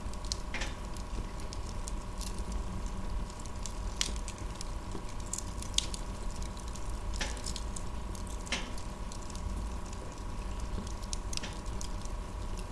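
Wood fire crackling, with irregular sharp pops over a steady low rumble and a faint steady tone.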